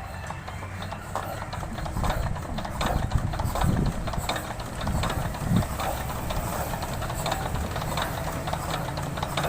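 Diesel engine turning over with a rapid, uneven knocking chug that grows louder about two seconds in, during an attempt to start a diesel that is very hard to start.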